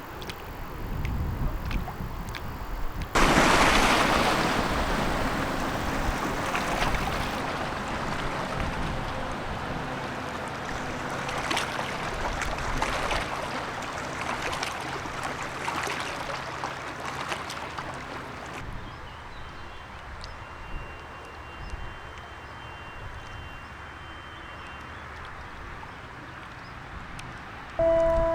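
A passing ship's wash, a rushing, splashing water noise that comes in suddenly about three seconds in and slowly dies away, over a faint low engine hum. Near the end a ship's horn begins to sound.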